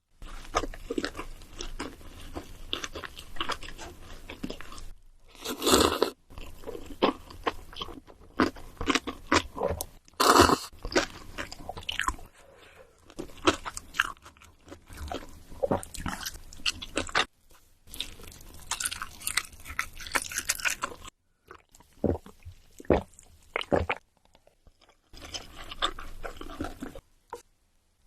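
Close-miked eating of crunchy food: repeated bites and chewing with dense crackling crunches, several louder bites, and short pauses between mouthfuls.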